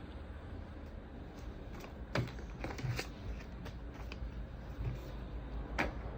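A sheet of A4 paper rustling and crinkling as it is folded and creased. There are a few short crackles about two to three seconds in and again near the end, over a steady low hum.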